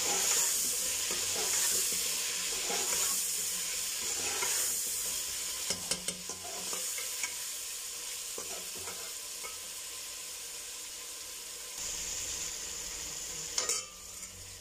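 Chicken pieces frying in oil in an aluminium pot, sizzling steadily, with ginger-garlic paste just added. A slotted metal spoon stirs them, clinking and scraping against the pot now and then. The sizzle grows gradually quieter.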